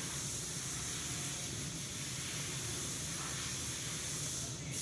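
Steady background hiss with a low hum underneath, unchanging throughout, with no distinct event.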